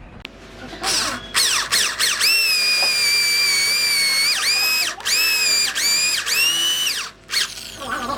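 Handheld electric drill or driver whining through a series of trigger pulls. Its pitch sweeps up as it spins up and drops as it stops, with one long run of about two seconds among several short ones.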